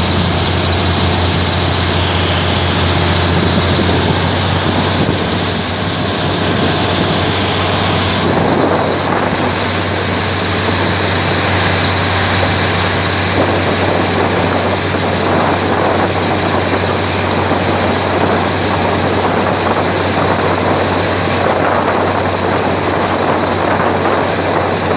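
Diesel-hauled passenger train running, heard from inside the carriage at an open window: a steady low drone with wheel and rail noise, which grows louder and rougher about eight seconds in.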